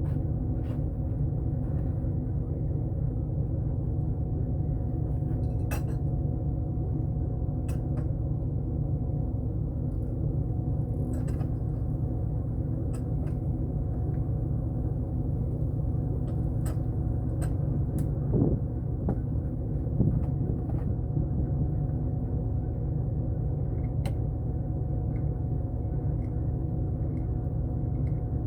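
Pickup truck engine running steadily, with scattered sharp clicks and knocks, two slightly louder knocks about two-thirds of the way through.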